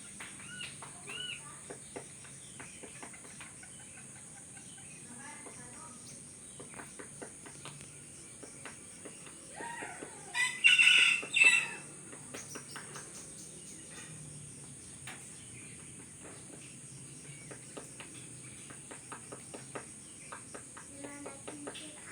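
A domestic chicken calls loudly in a quick run of about three calls halfway through, over a steady high-pitched insect buzz. Scattered short bird chirps and small clicks run through the rest.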